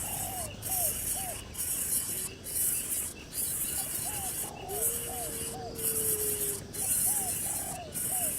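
Outdoor animal ambience: a high, hissing insect-like drone pulsing on and off about twice a second, over short downward chirping calls repeated several times and one long held note about halfway through.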